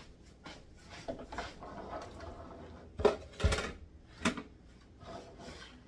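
Kitchenware being handled and set down: a series of knocks and clinks, the loudest few coming about halfway through.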